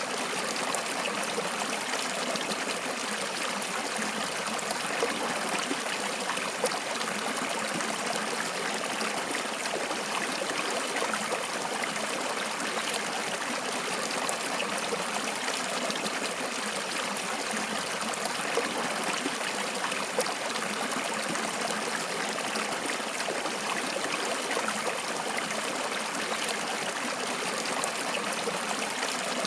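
Flowing water in a stream, a steady trickling and babbling with small splashes here and there.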